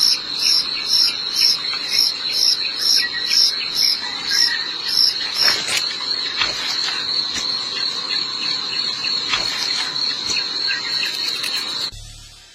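Insects calling: a steady high-pitched trill, joined for the first half by chirps repeating about three times a second. It cuts off suddenly near the end.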